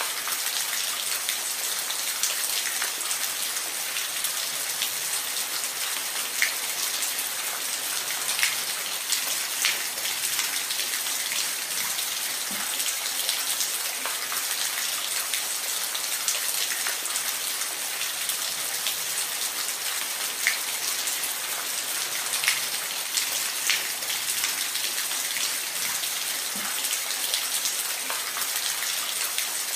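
Steady rain: an even hiss with scattered, sharper drops striking a surface now and then.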